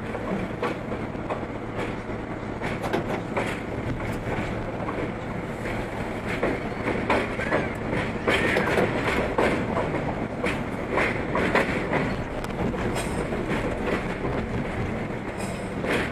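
R32 subway train running along the track, heard from inside the car at the front window: steady running noise with the wheels clattering over rail joints, growing louder about halfway through.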